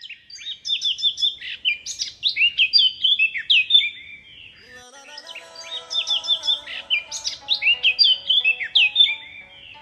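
Songbird chirping: rapid high chirps and whistled sweeps in two bursts of about four seconds each, with soft music coming in about halfway through.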